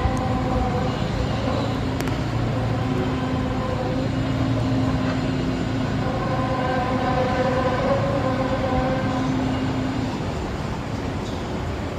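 A long, low droning hum made of several steady tones layered together, holding for about ten seconds and easing off near the end. It is one of the unexplained groaning 'sky sounds' recorded by the public.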